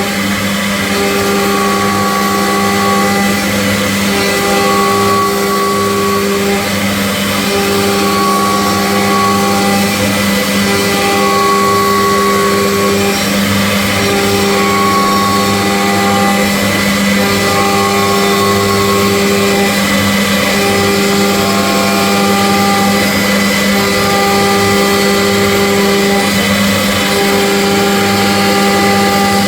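CNC machine running: a steady hum under higher motor tones that stop briefly and start again every two to three seconds.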